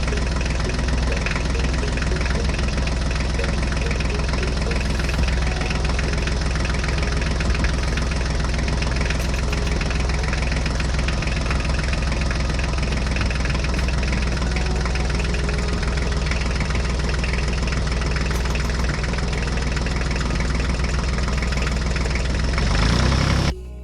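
Tractor engine idling steadily with a knocking clatter. It cuts in and cuts off abruptly, like a clip dropped into the soundtrack.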